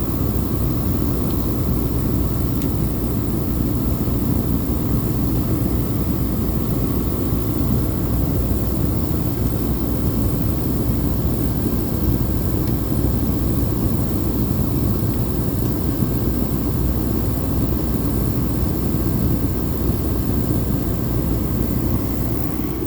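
Diesel heater running steadily: an even, rushing noise from its burner and blower, heaviest in the low range, with a few faint steady tones over it.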